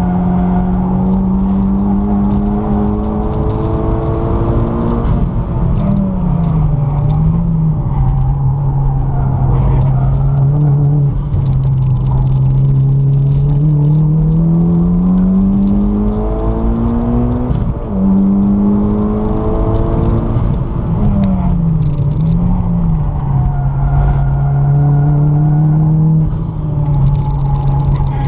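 Mitsubishi Lancer Evolution X's turbocharged 2.0-litre four-cylinder engine, heard from inside the cabin on a hard track lap. It revs up under full throttle, drops in pitch on gearchanges and blips briefly on the downshifts under braking, twice over, with road and tyre noise underneath.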